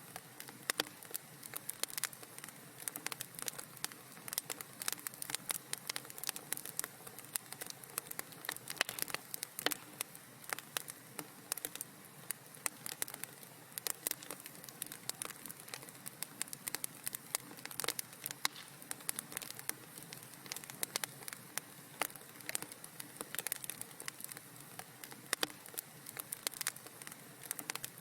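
Wood fire in a fireplace crackling steadily, with frequent irregular sharp pops and snaps over a soft hiss.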